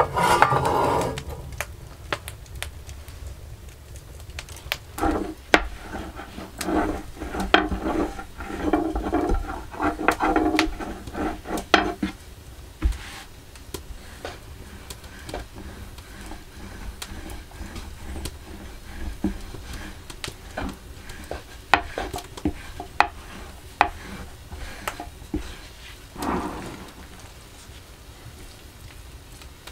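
Food frying in a pan while a utensil stirs it: a sizzle under repeated clicks and scrapes against the pan. The stirring is busiest from about five to twelve seconds in.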